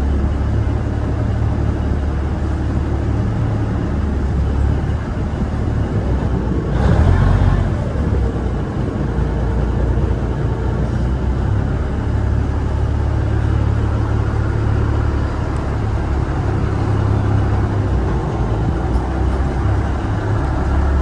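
River ferry's engine running with a steady low rumble, with a brief louder rush of noise about seven seconds in.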